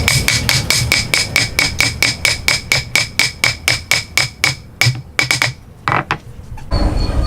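Hammer blows in rapid, steady succession, about five a second, each with a short metallic ring; they slow to a few scattered strikes and stop about five and a half seconds in. Near the end a different, steadier noisy sound with a low rumble begins.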